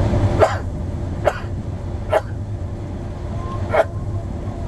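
Steady low drone of a running combine, broken by four short, sharp sounds spaced about a second apart, with a longer gap before the last one.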